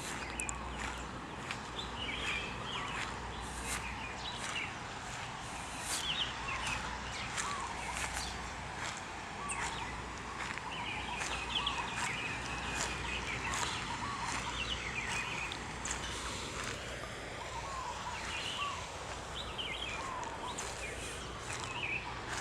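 Many birds chirping and calling over a steady outdoor background, with frequent short clicks.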